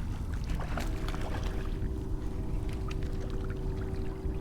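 Water lapping and sloshing against a small boat, with a faint steady hum coming in about a second in.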